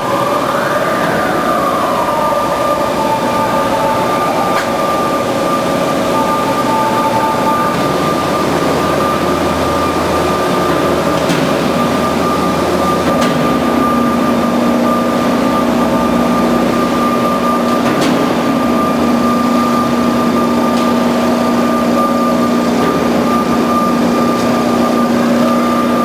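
Band saw running steadily, a constant whine over a loud noisy rush, with a lower hum joining about halfway through.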